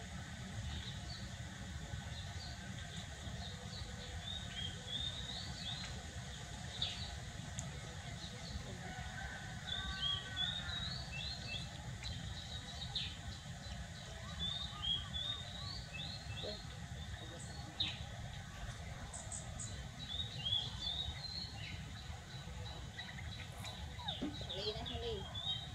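Small birds chirping in short repeated clusters, over a steady low background rumble.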